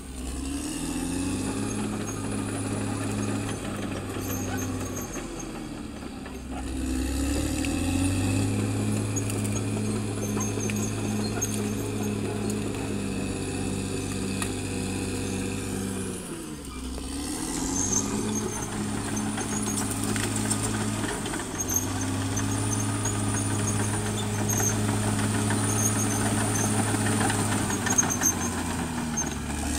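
Caterpillar D6R XL bulldozer's diesel engine running steadily under load. The engine note dips and picks back up three times, near the start, about six seconds in and just past the middle, as the load changes. A faint, evenly repeating high squeak runs through.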